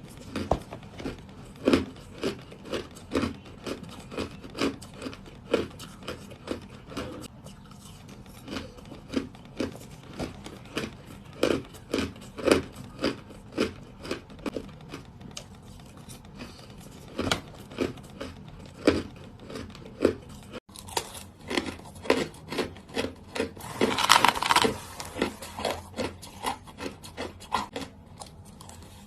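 Close-up crunching of small, hard ice being bitten and chewed, sharp crunches coming about two a second. About three quarters of the way through there is one louder, longer crunch lasting about a second.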